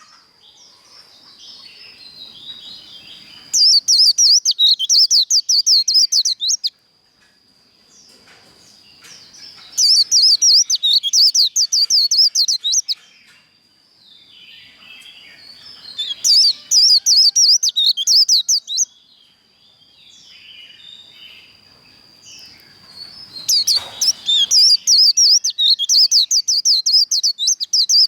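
White-eye (vành khuyên) singing its fast, high 'líu' trilling song in four loud bouts of about three seconds each, with softer chirps between them and a faint steady high whistle underneath. This is the excited competition-style song used to fire up caged white-eyes.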